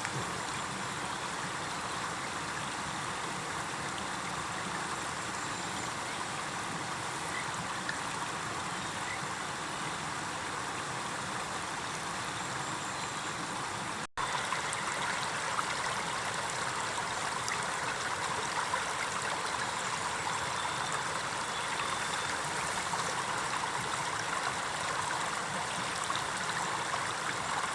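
Wood campfire burning in an iron fire pit: a steady hiss with scattered small crackles, a little louder after a cut about halfway through.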